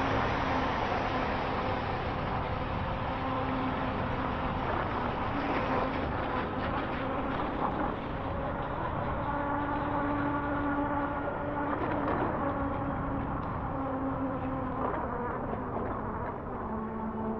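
HappyRun G18 Pro electric bike's hub motor whining under power. The whine comes and goes and shifts a little in pitch with speed, over a steady rushing noise.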